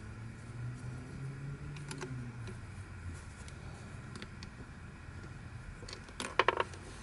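Plastic twisty-puzzle pieces being handled and clicked together: a few faint clicks, then a quick run of four or five sharp plastic clicks about six seconds in, over a low steady hum.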